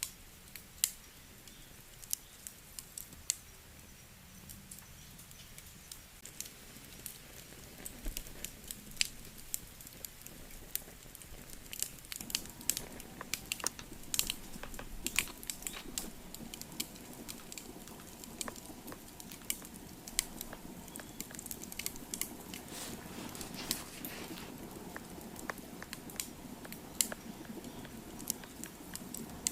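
Wood fire crackling, with irregular sharp pops and snaps, and a low steady rushing that comes up about twelve seconds in.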